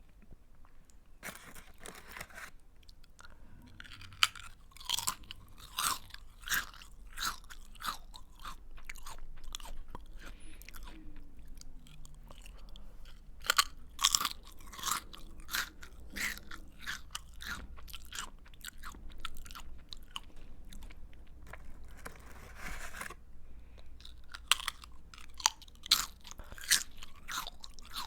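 A person chewing a crunchy snack close to the microphone: sharp, irregular crunches in clusters with short pauses between mouthfuls.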